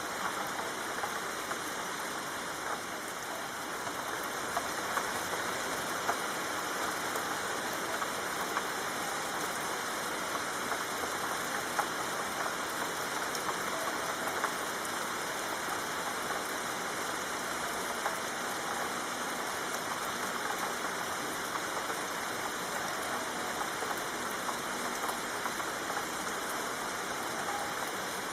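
Steady soft rain falling: an even hiss dotted with many small drop ticks.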